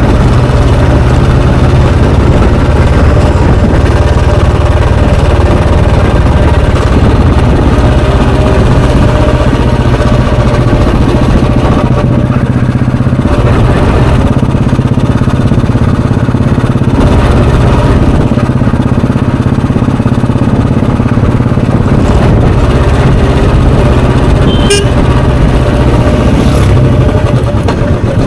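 A Royal Enfield Bullet 350's 346 cc single-cylinder, air-cooled four-stroke engine and exhaust running steadily and loudly while the motorcycle is ridden. A brief high-pitched chirp sounds near the end.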